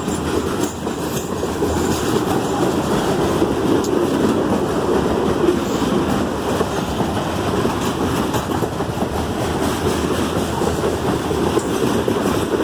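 Freight train cars rolling past on the track: a steady noise of steel wheels on rail, with some clickety-clack over the rail joints.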